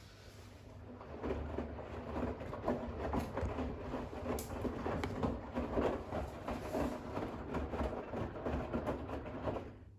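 Bosch WAX32GH1 front-loader's drum turning during the final rinse, wet towels tumbling and water sloshing over a low motor hum; it builds about a second in and stops abruptly near the end as the drum pauses between rotations.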